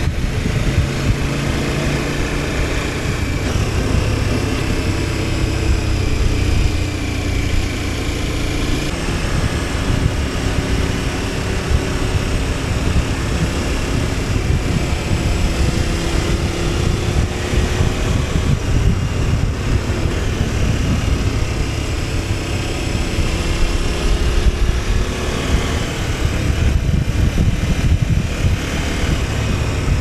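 KTM 1290 Super Adventure S's V-twin engine running on the road, its pitch rising and falling gently with the throttle, over heavy wind rumble.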